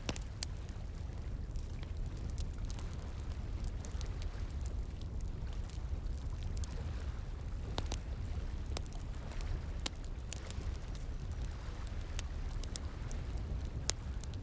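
Campfire crackling with irregular sharp pops and snaps, over a steady low rushing of flowing water.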